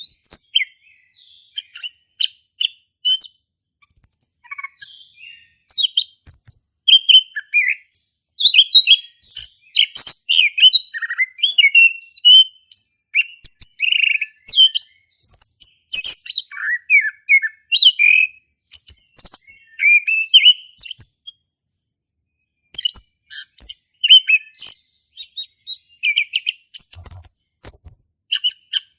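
Male chestnut-capped thrush (anis kembang) singing continuously in full voice: quick, varied high chirps and whistled phrases poured out one after another. There is a short break a little after the middle of the song.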